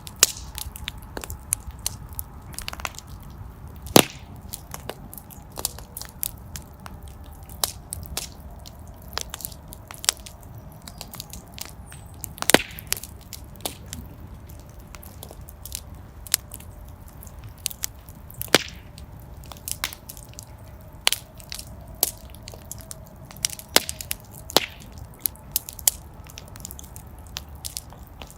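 Wood fire in a fireplace burning and crackling: irregular sharp pops and snaps, a few louder than the rest, over a low steady rumble of the flames, with a faint thin whistle in the background.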